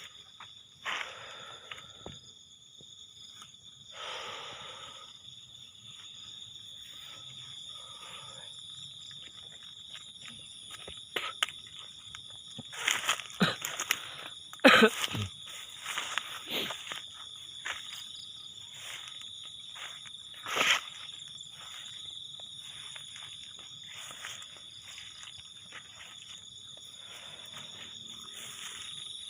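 A steady high insect chorus, chirring without a break, with footsteps rustling and crunching through vegetation. The footsteps come in clusters about halfway through and again a few seconds later.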